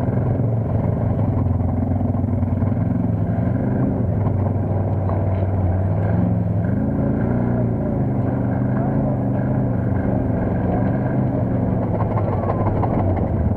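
Engine of an off-road vehicle heard from on board while riding through mud, running continuously with the revs rising and falling.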